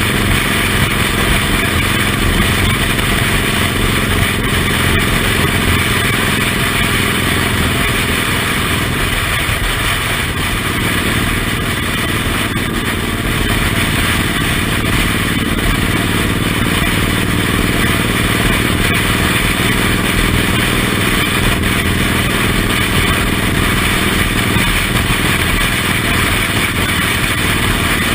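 Suzuki Intruder M1800R's big V-twin engine running steadily while the bike is ridden, with a loud, constant rush of wind and road noise over it.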